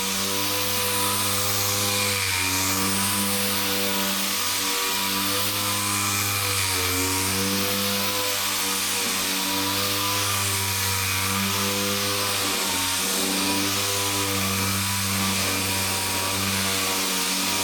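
Dual-action orbital sander with an interface pad and 320-grit sandpaper running steadily over high-build primer on a car panel, refining 220-grit scratches; a constant hum over a hiss, its pitch dipping slightly now and then as the sander is moved.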